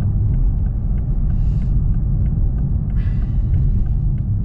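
Road and engine noise of a moving car heard from inside the cabin: a steady low rumble, with two brief hisses about a second and a half and three seconds in.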